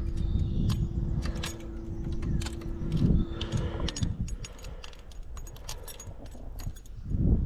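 Metal fishing tackle rattling and clicking, as a spinnerbait with its blades is handled, over a steady hum that stops about four seconds in.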